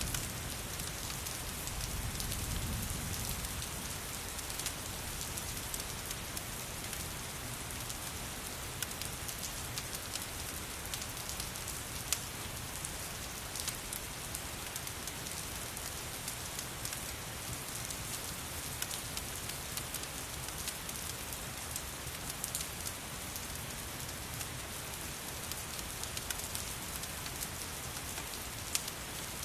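Steady rain with a fire crackling, many small sharp ticks scattered through the steady hiss, and a soft low rumble swelling briefly about two seconds in.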